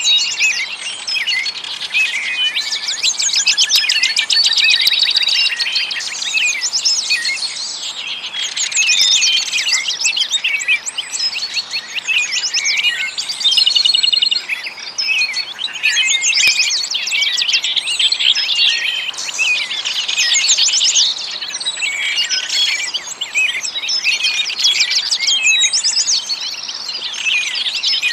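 A dense chorus of small songbirds: many overlapping high chirps and rapid trills with no break.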